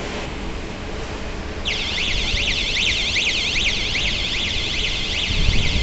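An electronic alarm starts about two seconds in: a high-pitched tone sweeping rapidly up and down, several times a second, over a steady low machinery rumble.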